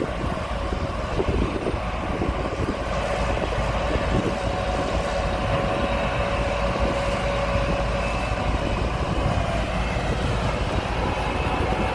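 Gleaner S98 combine harvester running steadily under load as it picks up a swathed oat crop: a continuous machinery drone with a steady whine over it.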